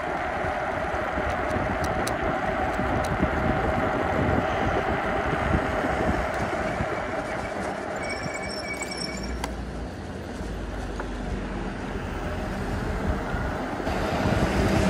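Steady wind and road noise from an e-bike being ridden in the rain, with a short high-pitched squeal about eight seconds in.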